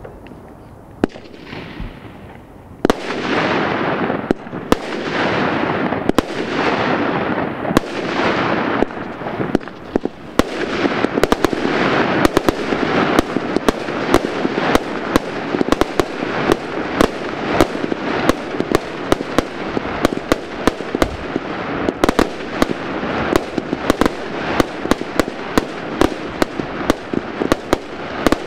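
Fireworks, most likely a consumer firework battery firing shot after shot. After a quieter start, sharp bangs begin about three seconds in, each followed by a fading hiss, and from about ten seconds on they come in a dense, rapid run of cracks and pops.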